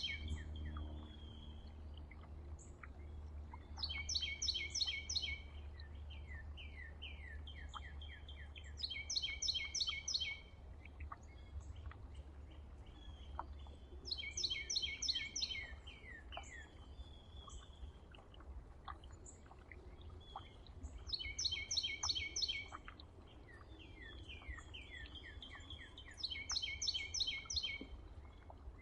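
A songbird sings the same short song again and again, about every five to six seconds. Each song is a quick run of rapid high notes followed by a few falling slurred notes, over a low steady rumble.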